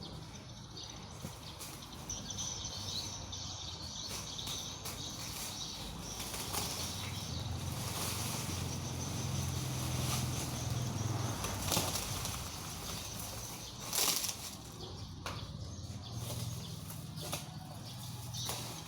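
Rustling and crinkling of packaging being handled, with scattered clicks and a sharper crackle about fourteen seconds in, over a faint low steady hum.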